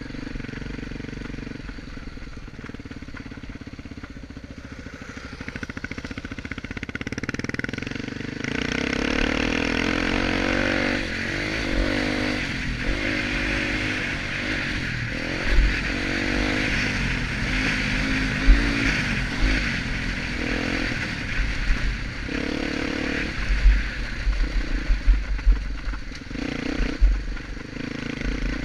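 Honda Tornado single-cylinder four-stroke motorcycle engine running at low revs, then from about eight seconds in pulling away and revving up and down over and over as it is ridden round a motocross track, with a steady rushing noise. Heavy low thumps come again and again in the second half.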